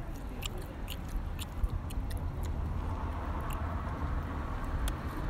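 A person chewing grilled camel meat close to the microphone, with scattered small clicks over a steady low rumble.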